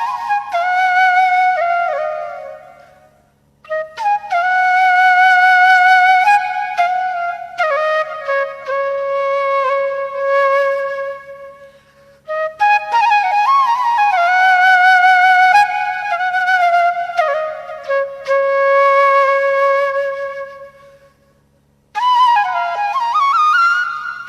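Background music: a slow, solo flute melody with vibrato, played in long phrases with brief pauses between them.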